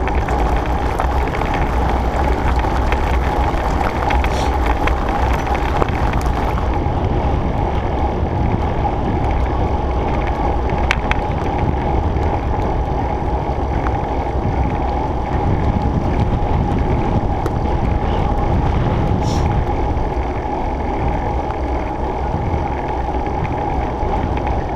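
Wind rushing over the mic and tyre noise from a Surly Krampus bike rolling along at a steady pace, with a steady hum running under it and a few faint clicks.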